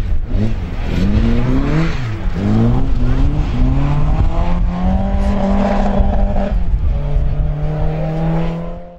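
Rally car engine accelerating hard, its pitch climbing and dropping with each gear change, then holding a steady high note before fading out near the end.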